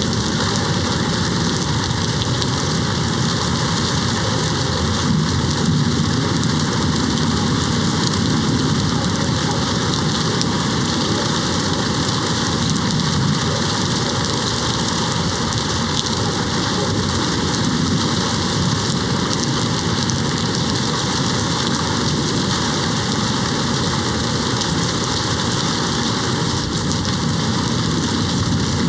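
Steady, even rain hitting a window, with no breaks in it.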